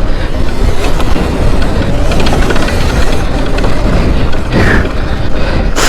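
Electric dirt bike being ridden on a dirt track: heavy wind buffeting on the microphone over the rattle of the chain and chassis.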